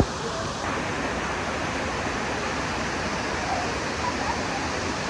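Waterfall's water rushing steadily, a loud, even wash of noise; the sound shifts slightly just over half a second in.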